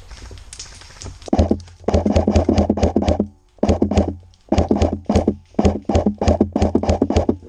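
Airsoft rifle firing on full auto in several long bursts of rapid, evenly spaced shots, starting about a second and a half in, with short pauses between bursts.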